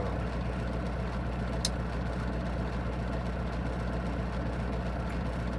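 Semi-truck's diesel engine idling steadily, a low even hum, while parked waiting to be loaded. A faint short click sounds once, a little under two seconds in.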